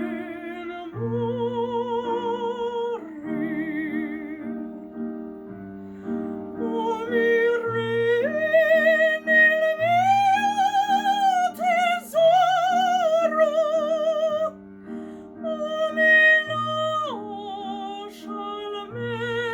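Classical operatic singing with a wide vibrato over a piano accompaniment of repeated chords. The voice climbs to a high held note in the middle of the passage, then falls back.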